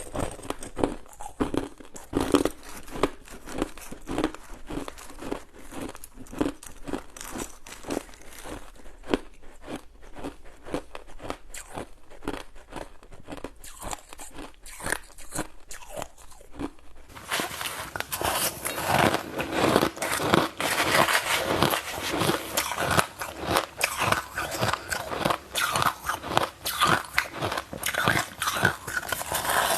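Ice being bitten and chewed close to the microphone: a steady run of sharp, crunchy cracks. About halfway through, the crunching becomes louder and denser.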